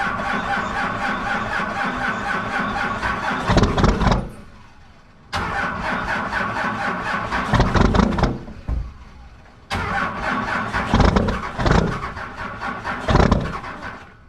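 Cummins inline-six diesel in a Dodge pickup being cranked by its starter in three attempts of a few seconds each, with short pauses between, a fast regular chug over the starter's whine, and the engine not staying running. A cold start at 15 °F without the grid heater: the owner puts the failure to start down to that, and to cranking too long until the batteries gave out.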